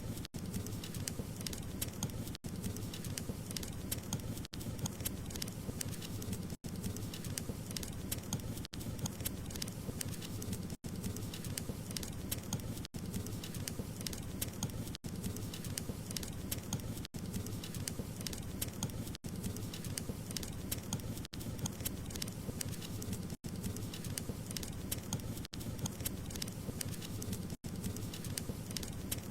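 Wood fire crackling: a steady low rumble of flames with a dense scatter of small pops and crackles. The sound cuts out for an instant about every two seconds.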